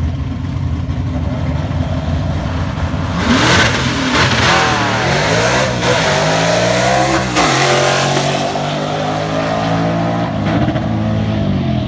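Drag cars, one of them a turbocharged 3-valve Mustang with a five-speed manual, rumbling at the line, then launching about three seconds in. The engine pitch climbs and drops back several times as the gears are shifted, then eases off down the track.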